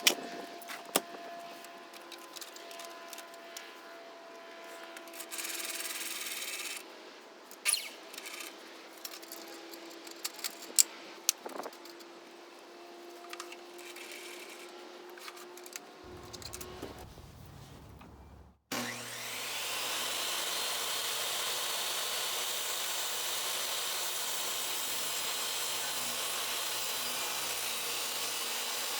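Scattered clicks and knocks of handling, then, about two-thirds in, a Hercules 10-inch compact table saw running steadily through wood.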